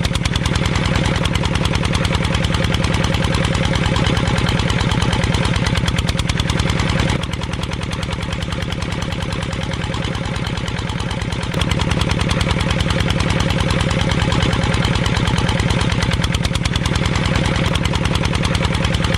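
Small engine running steadily with a fast, even putter. It drops in level for a few seconds about seven seconds in, then comes back up.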